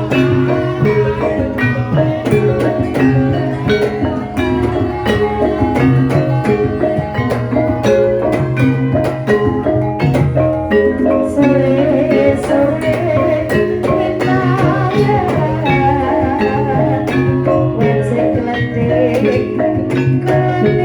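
Javanese gamelan playing a gendhing: struck metallophones and drums keep a steady, busy rhythm. From about halfway a wavering high melodic line, a sinden's singing voice, rises over the ensemble.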